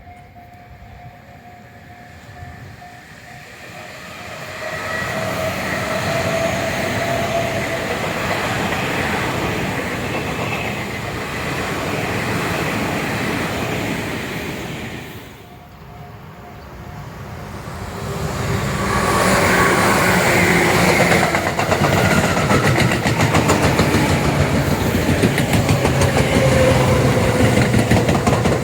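Tobu Tojo Line electric trains passing by. One pass builds up about four seconds in and fades away just after fifteen seconds. A second, louder pass follows from about eighteen seconds, with a rapid clatter of wheels over the rail joints.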